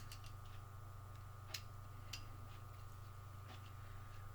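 A few faint, scattered metal clicks from a small hex driver and an RC pinion gear being handled while the pinion's grub screw is taken out, over a steady faint hum.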